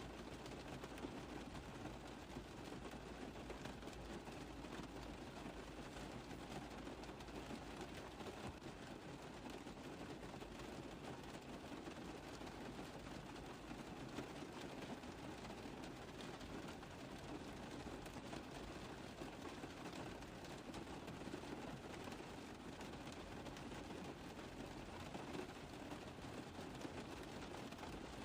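Steady rain falling on a car roof, a dense run of many small drop taps at an even level.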